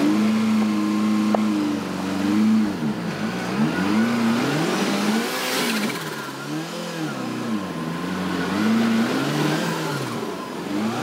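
Subaru Impreza rally car's turbocharged flat-four engine revved up and down again and again, about once every second or two, as the car tries to drive out of a roadside ditch under load while being pushed. A short rush of hiss comes about halfway through.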